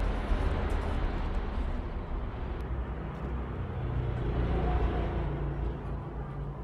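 A steady low rumbling background noise, like traffic, without clear breaks or strokes.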